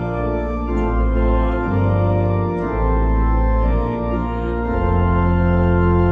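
Organ music: slow, held chords over deep bass notes, changing every second or two, with a full chord held from a little before the end.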